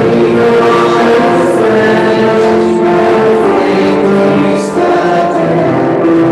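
A choir singing a hymn in parts with instrumental accompaniment, in long held chords.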